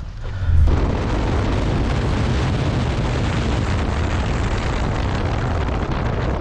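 Motorcycle riding at speed with wind rushing hard over the microphone, a steady loud roar that sets in suddenly about half a second in.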